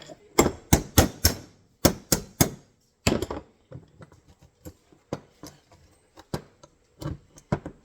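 Steel parts of an MB 550 foothold trap clicking and clanking as its springs and levers are worked into the frame with a screwdriver, metal knocking on metal. A quick, irregular string of sharp knocks in the first few seconds, then lighter scattered clicks.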